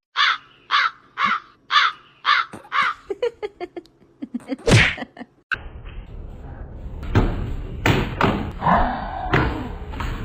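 An animal calling six times at an even pace, about two calls a second, followed by a run of quicker, shorter calls and one louder sound. Then, after an abrupt change, a few thumps and knocks over a noisy background.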